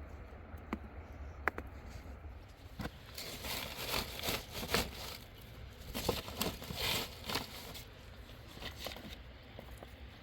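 Rustling and crinkling handling noise with scattered sharp clicks, in dense clusters through the middle.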